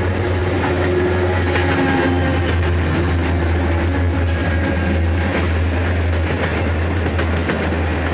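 Diesel-hauled freight train rolling by, its wheels clicking over the rail joints above a steady low drone.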